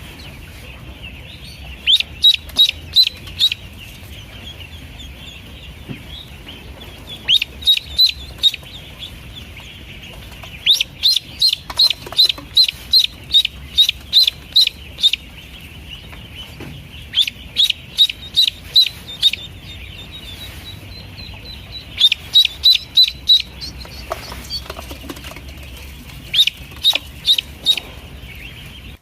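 Pekin ducklings peeping: runs of short, high-pitched peeps, about four or five a second, each run lasting one to four seconds with pauses between.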